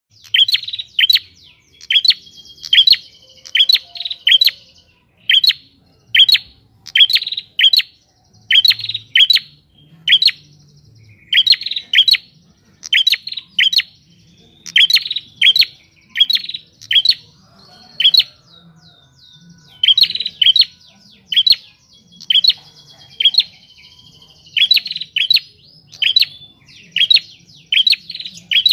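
Wild prinia (prenjak) singing persistently: sharp, high chirps repeated about one or two a second, often in pairs, with a short pause about two-thirds of the way through.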